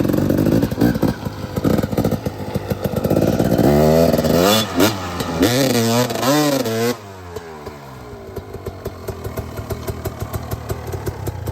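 250 two-stroke dirt bike engine under hard throttle, then revving up and down several times in quick blips through the middle, before dropping to a quieter, rapidly ticking idle for the last few seconds.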